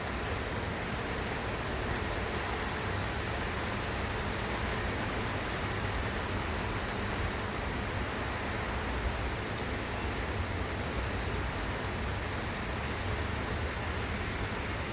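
Steady rain falling, an even hiss that does not let up, with a few faint drop ticks.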